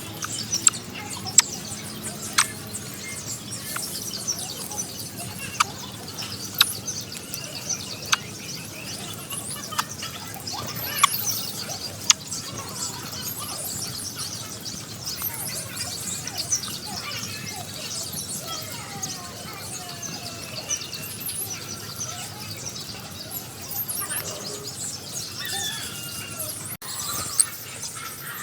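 Baby birds in the nest chirping and squealing in many short, high calls, with sharp peeps every second or so, typical of nestlings begging for food.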